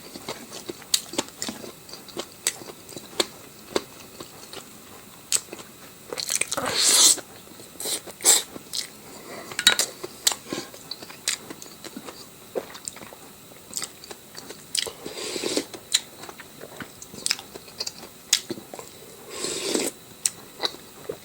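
Close-miked eating: a person chewing and biting food, with crunching and many sharp mouth clicks. Three longer noisy sounds come about a third of the way in, past the middle and near the end.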